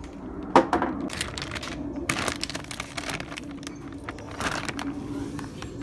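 Several sharp clicks and knocks, the loudest about half a second in, over a steady low hum.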